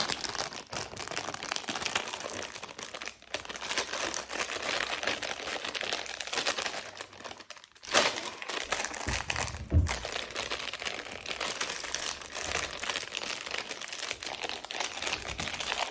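Plastic snack packaging being handled and opened, crinkling continuously with a short pause about halfway through and a brief low bump just after it.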